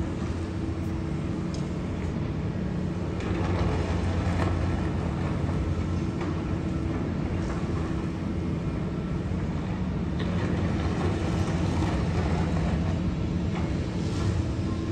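Distant freight train of tank cars rolling past: a steady low rumble with a steady hum in it and a few faint clicks.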